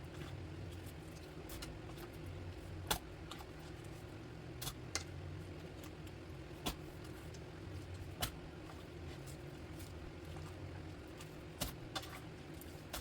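Several sharp clinks of a utensil knocking against a pot as cooked vegetables are scooped out, spaced a second or two apart, over a steady low hum.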